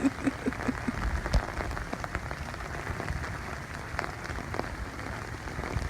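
Heavy rain falling on an umbrella held overhead: a steady hiss of rain with many sharp, close drop hits.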